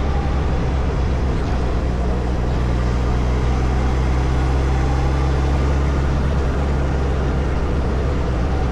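Suzuki Hayabusa's inline-four engine running steadily at low revs, with an even, unchanging note.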